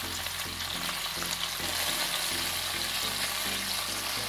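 Chicken pieces sizzling in hot oil in a non-stick frying pan, a steady hiss.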